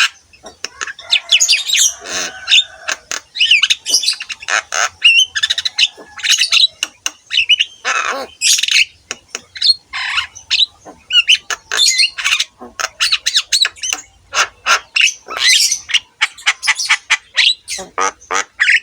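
Javan myna (jalak kebo) singing: a rapid, unbroken stream of short whistles, chirps and harsh squawks.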